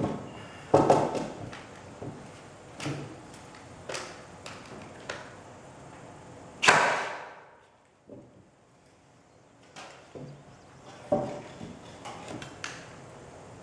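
Scattered knocks and clatter of boards and tools being handled during carpentry work, with one louder hit about halfway through that trails off over about a second.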